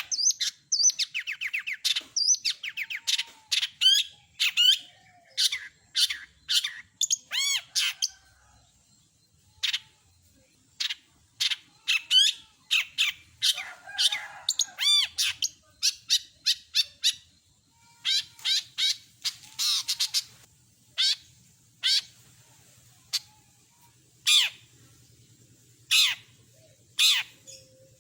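Long-tailed shrike (cendet) singing a varied, fast run of short whistled and harsh notes with brief pauses. It thins out to single sharp notes a second or two apart near the end.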